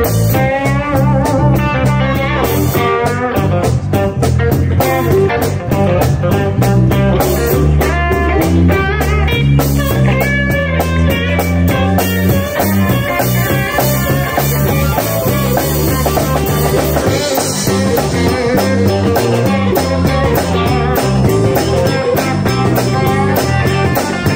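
Live blues band playing an instrumental passage: bending lead guitar lines over bass and a steady drum kit beat.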